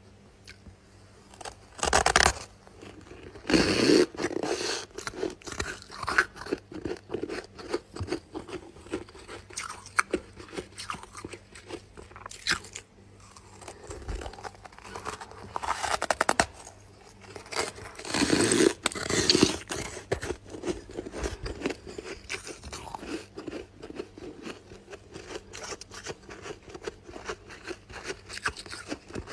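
A person biting and chewing chunks of freezer frost: a few loud crunching bites, with rapid crackly chewing in between.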